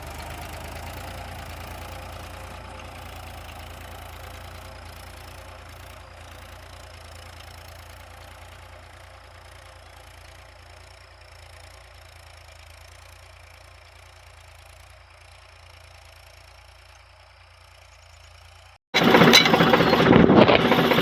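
Tractor diesel engine running steadily with a low hum that slowly grows fainter. About 19 seconds in, it cuts abruptly to much louder noise.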